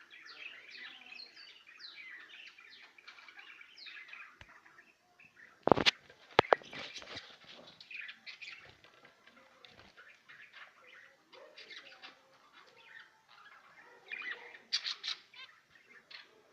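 A flock of small cage birds chirping and twittering continuously, with a loud flutter of wings about six seconds in and another flurry of wings and louder chirping near the end.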